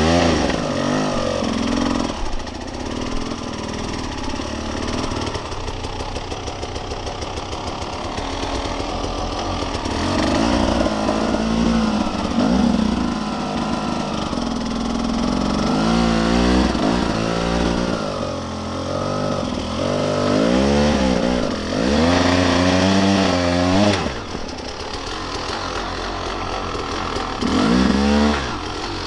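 Husqvarna dirt bike engine revving in repeated bursts of throttle, its pitch climbing and dropping back between them, with the longest and loudest bursts in the second half.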